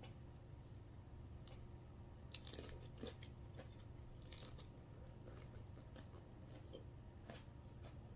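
Faint eating sounds: a person chewing, with scattered small crunches and mouth clicks, busiest from about two to four and a half seconds in.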